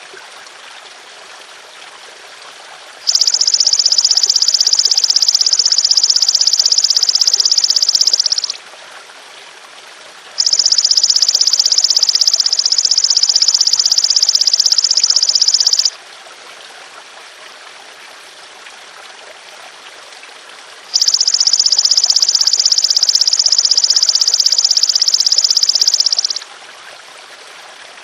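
A belalang emas ('golden grasshopper') insect making three long, high, steady buzzing trills of about five and a half seconds each, with short pauses between them, over the steady sound of trickling water.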